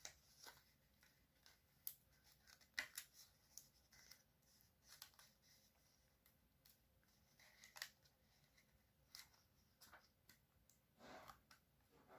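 Faint paper handling: a sheet of paper being creased and folded, giving scattered short crinkles and clicks, with a couple of longer rustling swishes near the end.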